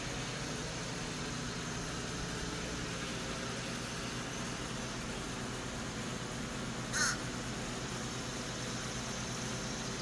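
A bird gives a single short call about seven seconds in, over a steady background hum.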